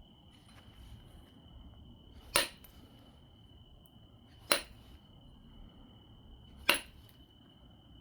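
Flintknapping an obsidian biface: three sharp clicking strikes on the stone, about two seconds apart. A steady high tone runs underneath.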